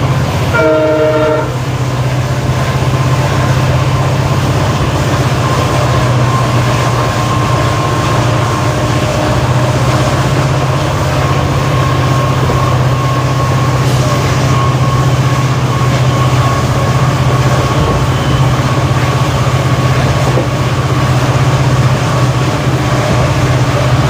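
A WDP4D diesel locomotive's EMD 710 two-stroke engine humming steadily under a moving train, with a short horn blast about half a second in.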